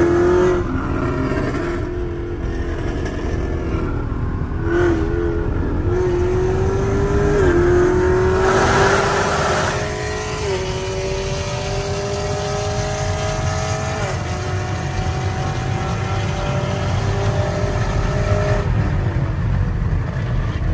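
Car engine heard from inside the cabin, accelerating along a highway: its pitch climbs and then drops at each upshift, about five times, over a steady road rumble. A brief rush of noise comes about nine seconds in.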